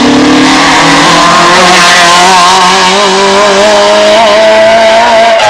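Rally car engine running at high revs under hard acceleration, its pitch wavering and slowly climbing, then dipping sharply near the end.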